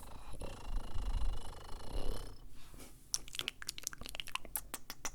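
Close-miked ASMR mouth sounds: a softer, muffled stretch, then from about three seconds in a fast run of sharp, wet mouth clicks and pops, several a second.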